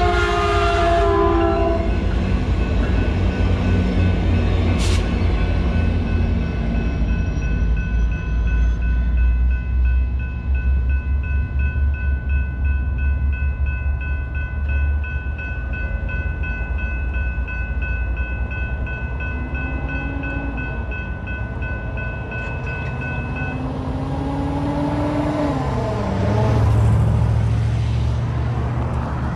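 Metrolink F59PH locomotive's air horn ending its blast, then the test train rumbling steadily over the crossing while the crossing bells ring. The bells stop about two-thirds of the way through, and a road vehicle drives past near the end.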